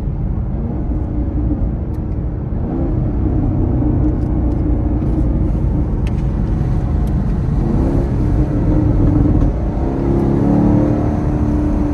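Chevrolet Camaro SS's V8 heard from inside the cabin while driving, a steady low rumble under road noise, with the engine note rising a few times as it pulls harder.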